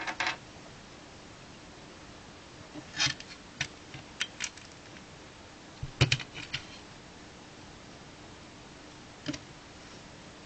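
Plastic LEGO bricks being handled and pressed together: scattered short clicks and little rattling clusters, the loudest about six seconds in, over a faint steady hum.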